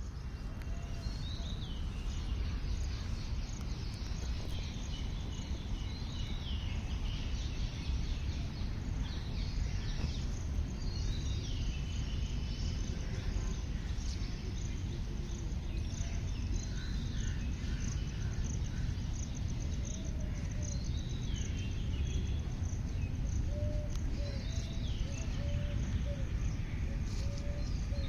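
Outdoor birdsong and insects: a bird repeats a short falling phrase every few seconds over a high insect trill, with a steady low rumble underneath. In the second half a lower call comes in as a run of short repeated notes.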